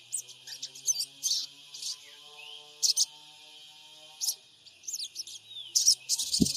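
Sogon birds giving quick, sharp high chirps and twitters in irregular clusters, some short calls sweeping up or down in pitch. A low thump near the end.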